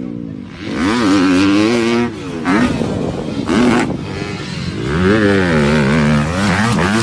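Trail motorcycle engine revving, its pitch rising and falling over and over, louder from about a second in.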